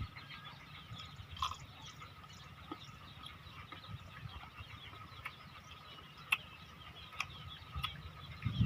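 Faint background chirping with a steady high tone, and a few soft sharp clicks scattered through.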